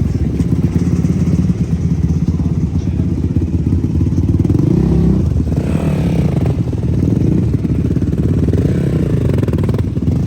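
Off-road race engine running close by, rising and falling in pitch as it is revved, around the middle and again near the end.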